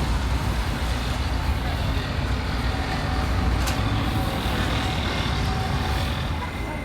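R68 subway train in the station, a low steady rumble with one sharp click about three and a half seconds in.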